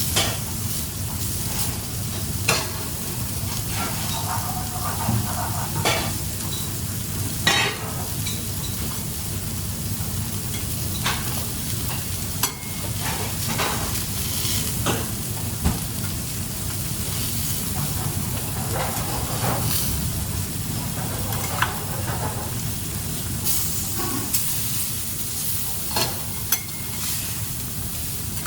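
Food sizzling steadily as it fries in a pan, with a utensil knocking and scraping against the pan every few seconds as it is stirred.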